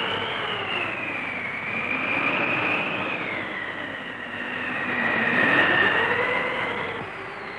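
Tornado sound effect: rushing wind noise with a howling whistle that slowly falls and rises in pitch, swelling louder twice.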